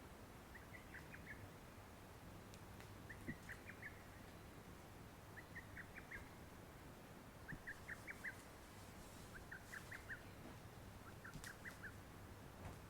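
A bird calling faintly and repeatedly: a short phrase of about four quick high notes, given six times at roughly two-second intervals.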